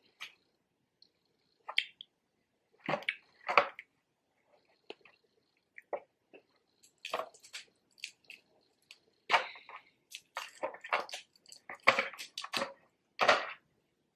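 Snow crab legs being eaten close to the microphone: irregular wet chewing and sharp cracks and snaps of shell, in scattered clusters with short pauses between.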